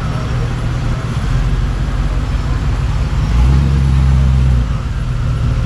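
A vehicle engine running with a steady low rumble, swelling louder for about a second midway and then settling back.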